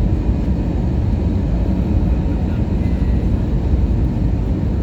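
Steady low rumble of an Airbus A321neo's cabin noise, the engines and airflow heard from inside the passenger cabin.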